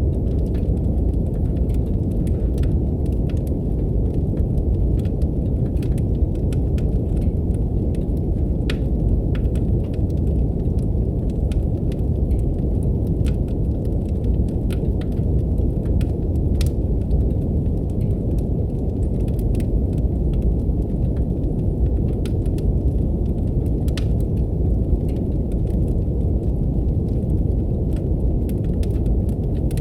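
Steady, deep brown noise with a wood fire crackling over it in scattered, irregular pops and snaps.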